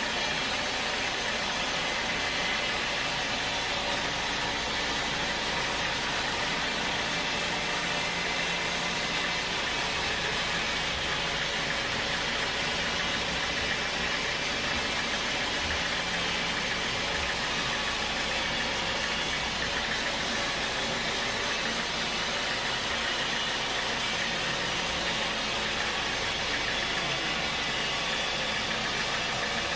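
Sawmill machinery running steadily: an engine-driven hum with a constant wash of mechanical noise and no change in level.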